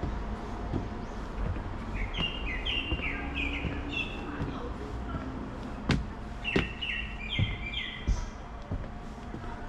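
A small songbird singing a repeated two-note phrase, high note then lower, four or five quick repeats in a row, twice. Under it, regular soft footsteps on a forest path.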